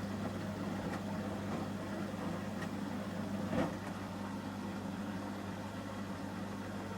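Samsung Series 5+ front-loading washing machine running during its Ecobubble detergent stage: a steady low hum with the drum turning, and a single thump about three and a half seconds in.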